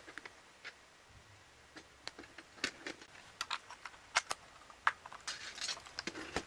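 Irregular light clicks and taps, with a little rustling, of small hard parts being handled, getting busier after a couple of seconds.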